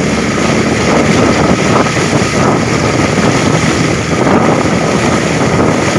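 A vehicle moving through floodwater: a steady rush of engine and water noise, with wind buffeting the microphone.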